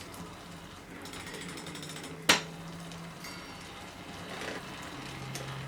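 Rear-wheel freewheel of a Giant e-bike ticking as the wheel turns in freewheel, with one sharp knock about two seconds in. The freewheel is racking and sounds a bit graunchy, which the mechanic takes for bearing trouble inside it.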